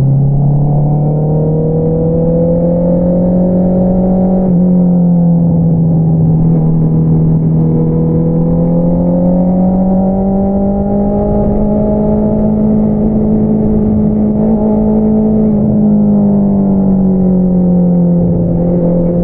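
Honda CBR650R inline-four engine running through an Akrapovič single-outlet exhaust under way. The engine note climbs, drops quickly about four seconds in, then rises slowly, holds, and falls away near the end.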